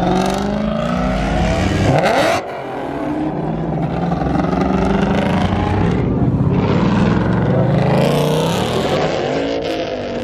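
Car engine accelerating hard, its pitch climbing. It breaks off sharply about two seconds in, then climbs again for several seconds.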